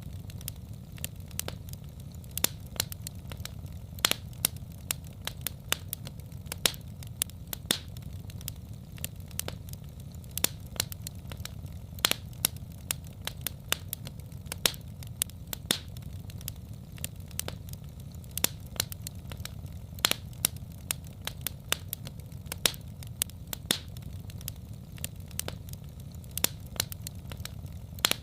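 Wood fire crackling: sharp pops and snaps at irregular intervals, several a second, over a steady low rumble.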